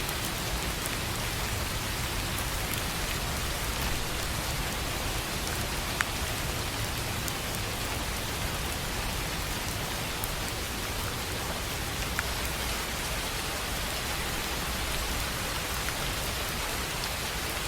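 Steady rain falling on a tin roof: an even hiss with scattered sharper drop ticks, a louder one about six seconds in.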